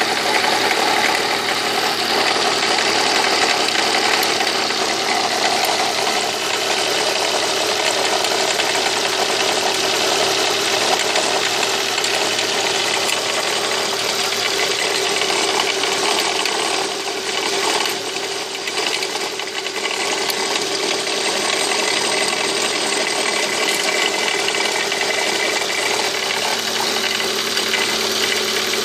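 Volvo S40's engine running steadily with a weird noise that the owner cannot account for. The sound grows briefly quieter about two-thirds of the way in.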